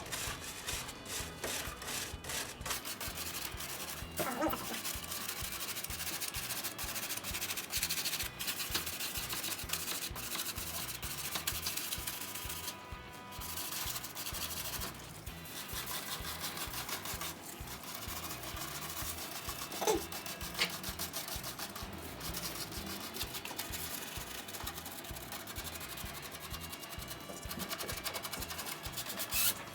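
Brush scrubbing the aluminium fins of an air conditioner's heat exchanger in rapid, continuous back-and-forth strokes.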